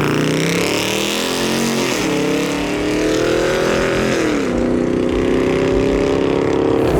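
A car engine revving hard, climbing in pitch over the first two seconds and then held at high revs, easing down to a lower steady pitch about four seconds in.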